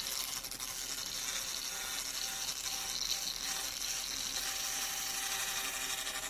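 Handheld pulsed laser cleaner ablating grime and rust off a BMW M43 engine block: a steady, sizzling, crackling hiss.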